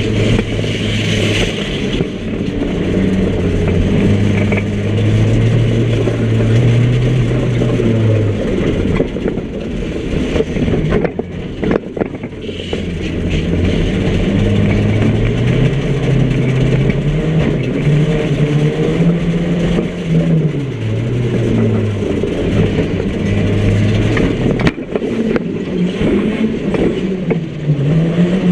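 A micro banger's small car engine, heard from inside the stripped cabin, revving up and dropping back over and over as the car drives and manoeuvres. A couple of sharp knocks come about midway and again near the end.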